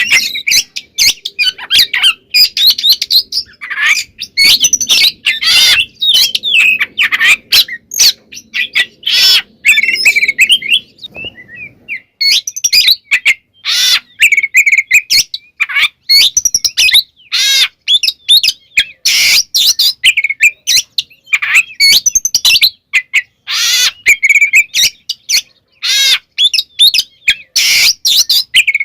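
Oriental magpie-robin (kacer) singing loudly and without a break: a fast, varied run of whistled phrases, chirps and harsh scolding notes, with one short pause about eleven seconds in.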